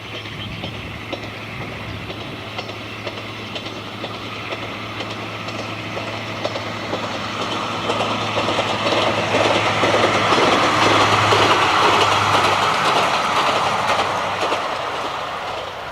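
A diesel train passing, its wheels clattering over the rail joints, growing louder to a peak about eleven seconds in and then fading, with a steady low hum under it.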